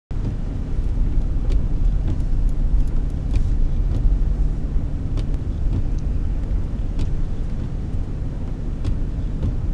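Steady low road and engine rumble heard inside a moving car, with a few faint clicks.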